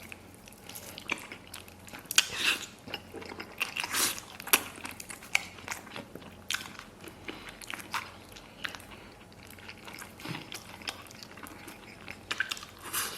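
Close-up eating sounds: wet, irregular smacking and biting as a person chews braised pig's trotter with springy, gelatinous skin.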